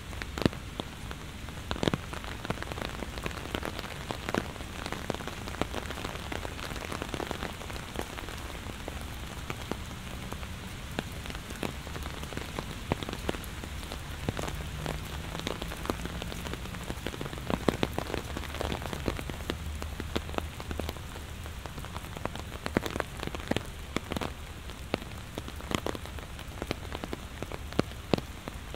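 Heavy rain falling steadily, with frequent sharp splats of close drops over the hiss of the downpour.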